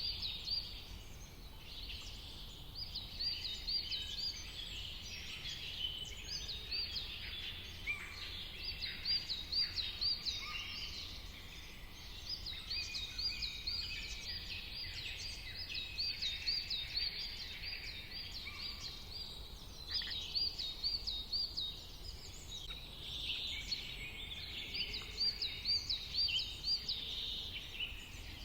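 Several wild birds singing and calling together, with repeated runs of short, rising chirps over a busier chatter of other calls, above a steady low background hum.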